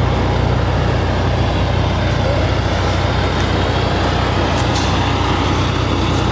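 Heavy tow truck engine running steadily at a low, even hum, with a few faint clicks about halfway through.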